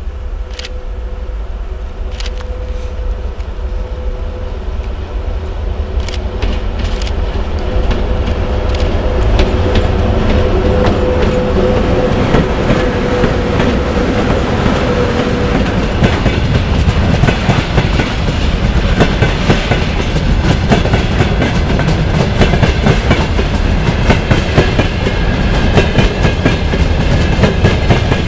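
VL80K, a Soviet two-section AC electric freight locomotive, hauling a freight train of hopper wagons: it grows louder as it approaches and passes, with a steady hum that fades out about halfway through. After that the rapid clickety-clack and clatter of the hopper wagons' wheels on the rails takes over.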